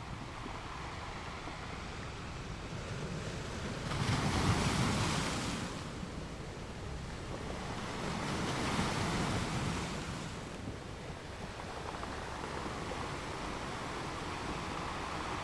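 Sea waves breaking and washing onto a shore. Two waves swell louder, one about four seconds in and the next about four seconds later, over a steady wash of surf.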